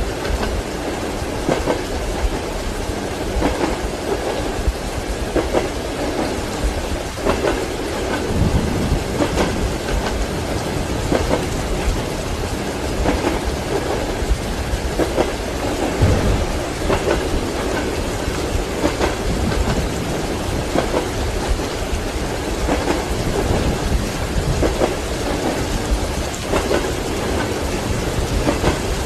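Train wheels clickety-clacking over rail joints, heard from inside a passenger compartment, under steady rain. Low rolls of thunder come in about eight seconds in and again around sixteen seconds.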